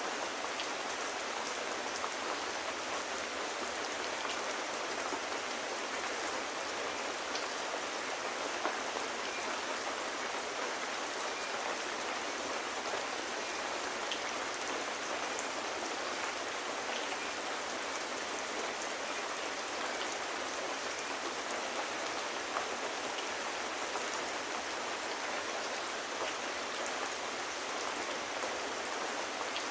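Steady rain, an even hiss with scattered faint ticks, unchanging throughout.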